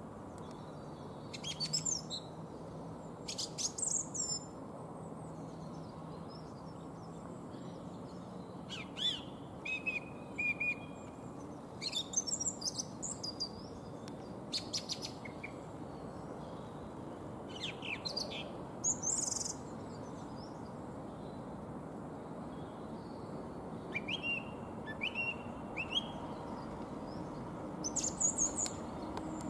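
Small birds chirping and calling in short scattered bursts, over a steady low rumble of a slowly approaching diesel freight locomotive.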